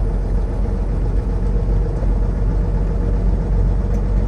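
Semi truck's diesel engine running steadily with road rumble, a constant low drone while driving.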